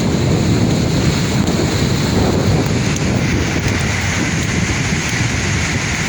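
Sea waves washing onto the shore in a steady rush, with wind rumbling on the microphone.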